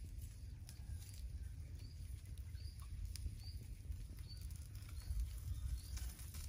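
Faint dry crackling and small clicks of papery skins as garlic cloves are peeled by hand. From about two seconds in, a bird gives short high chirps about once a second over a low rumble.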